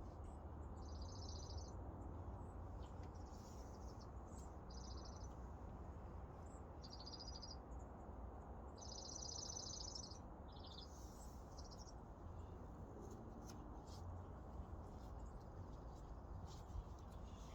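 Songbirds singing faintly: short, high, rapid trilled phrases of about a second each, repeated every second or two, over a steady low background rumble.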